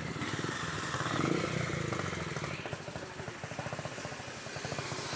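Honda CB300's single-cylinder engine running, its firing pulses heard as a rapid, even beat.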